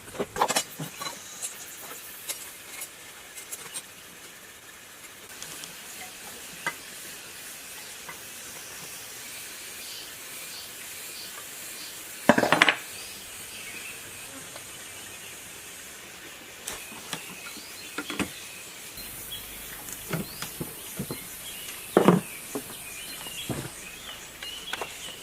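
Scattered clinks and knocks of hard objects being handled, at irregular intervals over a light steady hiss, with two louder knocks about halfway through and near the end.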